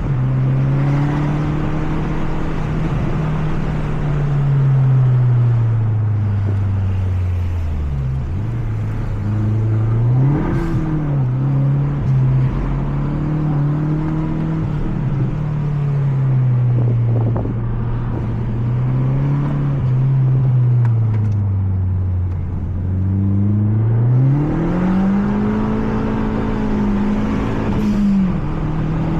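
Mazda 3 MPS (Mazdaspeed3) turbocharged four-cylinder engine heard from inside the cabin while lapping a track, its pitch climbing under acceleration and falling off as it lifts, several times over. It dips lowest about eight seconds in and again a little past the middle, then makes a long climb near the end.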